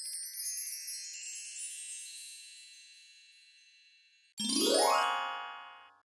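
Sparkly chime sound effect, a shimmer of high tinkling notes that fades away over about four seconds. About four and a half seconds in, a second effect follows: a pitched tone with overtones that sweeps steeply upward for about a second and a half and then cuts off.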